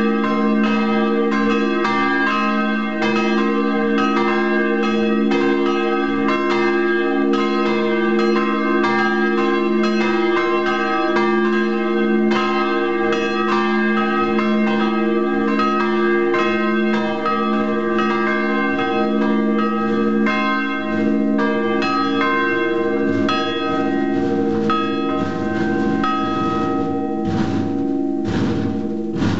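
Three swinging church bells, driven by linear motors, ringing together in a peal: a steady run of overlapping clapper strikes with long ringing tones. The strikes grow sparser in the last few seconds.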